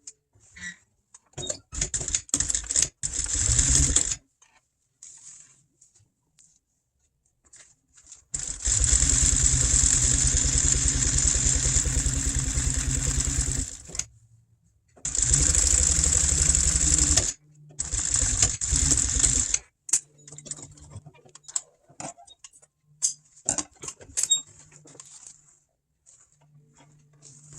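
Electric sewing machine stitching upholstery material in runs. A few short bursts come first, then a long steady run of about five seconds starting about eight seconds in, then two shorter runs. There are small handling clicks in the pauses.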